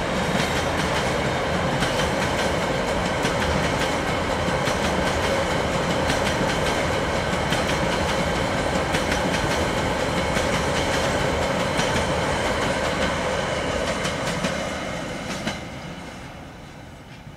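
A long rake of freight hopper wagons rolling past close by on broad-gauge track: a steady clatter of wheels with sharp rail-joint clicks. The sound falls away from about fourteen seconds in as the end of the train passes and draws off.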